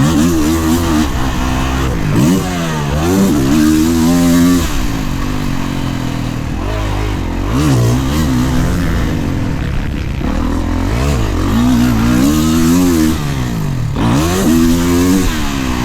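Kawasaki KX450 motocross bike's four-stroke single-cylinder engine revving hard and backing off over and over, its pitch climbing and dropping every few seconds as the rider rolls on and chops the throttle around the track.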